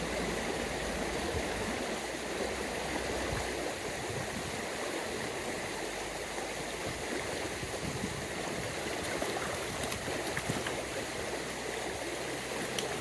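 Small upland stream running over rocks: a steady rush and gurgle of water.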